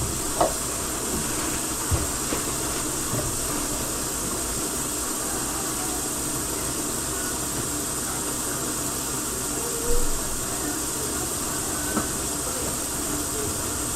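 Steady hiss with a few light knocks, one near the start and a couple more towards the end.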